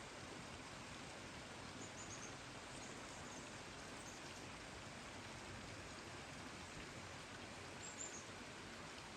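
Steady hiss of rain. A small bird gives a short run of high chirps about two seconds in and again near the end.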